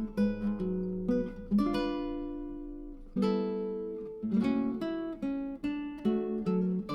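Background music: acoustic guitar picking single notes and chords, each note ringing out and fading, with fuller chords about one and a half and three seconds in.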